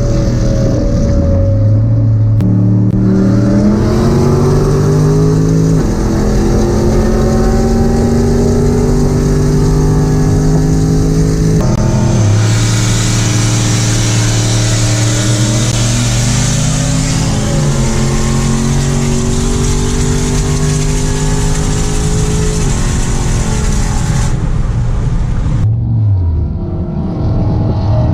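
Vehicle engine accelerating hard at full throttle, its pitch climbing and dropping back at each of several gear changes, then falling away near the end as it backs off.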